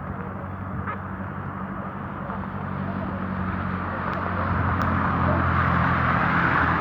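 Rain falling with a vehicle engine running, a steady low hum, the whole sound growing louder through the second half.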